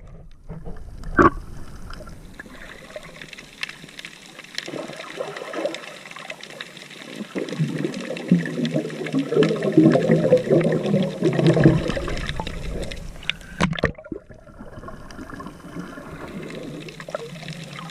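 Water sloshing and splashing around the microphone, louder and churning for a few seconds in the middle.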